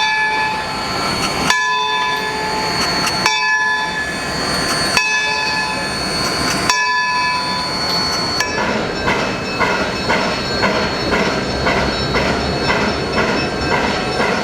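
Locomotive bells ringing. The first bell strikes slowly, about once every second and a half, each strike ringing on until the next. About halfway through, a second bell takes over, ringing faster, two to three strikes a second.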